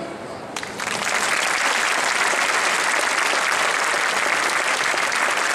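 The orchestral waltz music fades out on its last note, and under a second in an audience breaks into steady applause.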